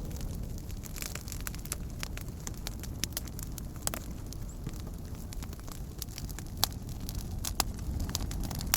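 Wood campfire burning, with a steady low rumble and frequent sharp crackles and pops; a few louder pops come near the end.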